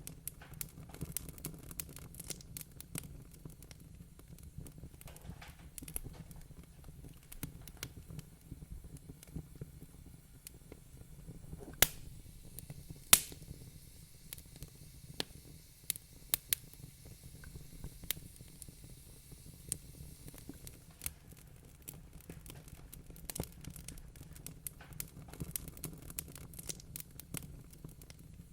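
Wood fire crackling in a fireplace: a steady stream of small pops and snaps over a low, even rumble, with two sharper, louder pops a little before halfway.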